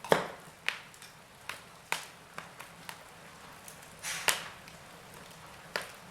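Burning logs crackling: sharp pops and snaps every half second or so over a soft hiss, loudest right at the start and again about four seconds in.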